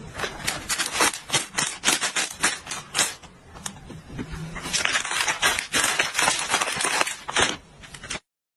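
A crinkly plastic snack bag being crumpled and shaken by hand: a quick, uneven run of crackles, louder in patches, stopping shortly before the end.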